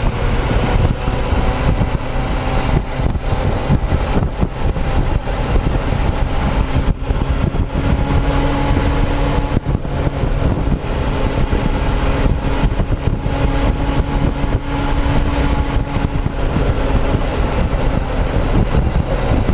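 Motorcycle engine running steadily while riding, picked up by a camera mounted on the fuel tank, with heavy wind noise on the microphone.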